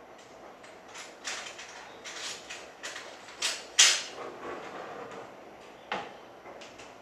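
A mayonnaise container being handled and opened: a run of irregular plastic scrapes and clicks, the loudest about four seconds in and a sharp click near six seconds.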